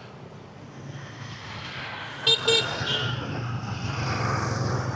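Street traffic passing, with a vehicle horn giving two short, loud beeps a little under halfway through, and a weaker third just after. The traffic grows louder toward the end.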